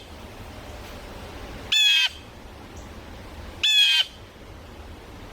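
Two loud calls from a corvid, each about a third of a second long, about two seconds apart.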